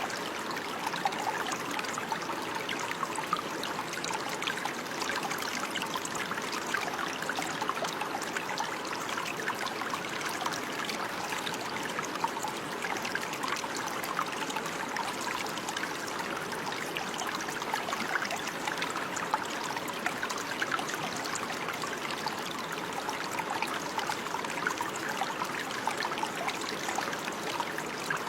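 Running water: a small stream trickling and burbling steadily, with many small splashes.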